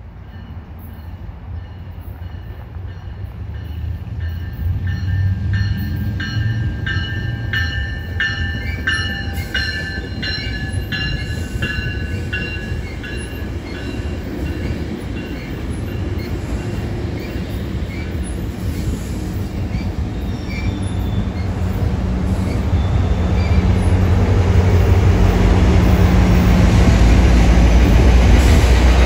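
Metrolink commuter train passing close by: a high, pulsing squeal from the bilevel cars' wheels with regular clicks over the rail joints. Then the low rumble of its diesel locomotive builds and is loudest near the end as the locomotive goes by.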